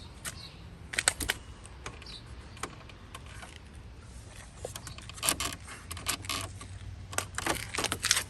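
Irregular small clicks and light rattling from hands working switches and keys at the car. They come in clusters about a second in, around five seconds in and again near the end, over a faint low steady hum.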